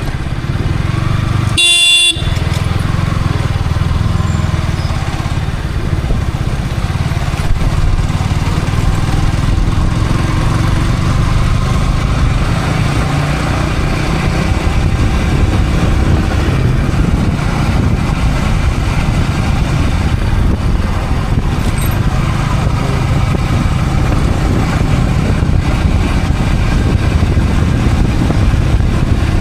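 Yamaha R15 V3's single-cylinder engine running steadily under way, heard through a helmet camera. A vehicle horn sounds briefly about two seconds in.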